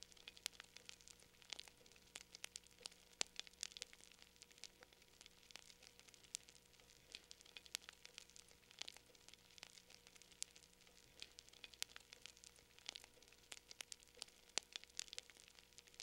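Wood fire burning in a fireplace, with faint, irregular crackles and pops over a low steady hum.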